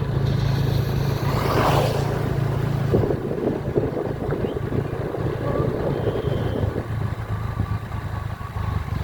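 Motorcycle engine running steadily while riding, with road and wind noise and a brief swell of noise about a second and a half in.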